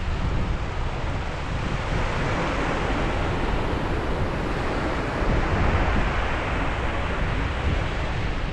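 Sea waves breaking and washing on the shore: a steady hiss that swells about two seconds in and eases off near the end. Under it is a low rumble of wind on the microphone.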